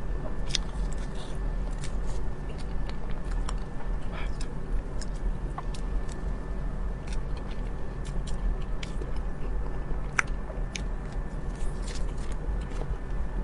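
Close-up eating sounds: biting into and chewing a soft cake, with many short mouth clicks and the crinkle of a thin plastic wrapper being peeled and crumpled. A steady low hum runs underneath.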